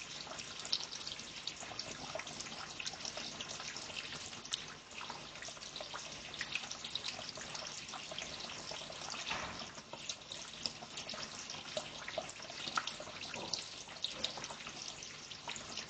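Water trickling and dripping steadily, with a dense scatter of short high ticks and chirps.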